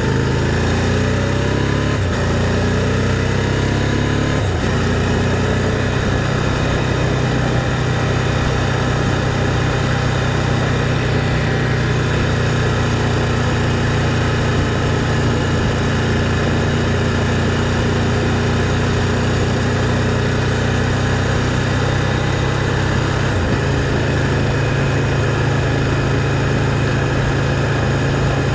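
Can-Am Spyder three-wheel motorcycle's engine running while riding, its pitch shifting in the first few seconds and then holding steady, with a noise haze over it.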